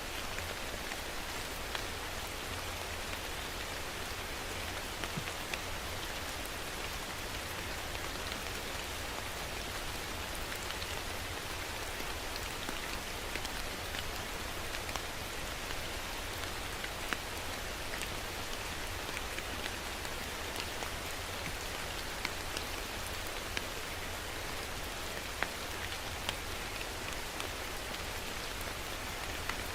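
Steady rain falling, an even hiss with scattered sharper taps of individual drops hitting a surface.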